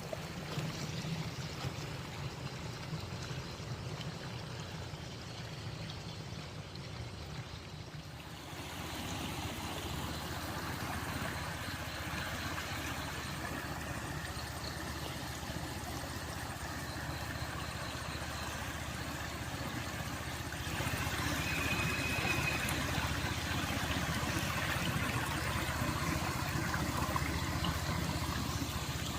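Flowing water, a stream running as a steady rushing wash. It changes abruptly about eight seconds in and again about twenty-one seconds in, getting louder each time.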